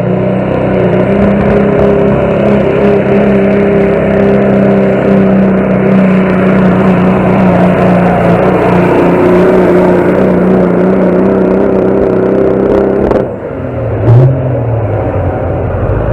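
Competition pulling vehicle's engine run wide open under load down the track, a loud, steady high-revving note. It cuts off sharply about thirteen seconds in, followed by a brief loud burst and a lower, rougher engine sound.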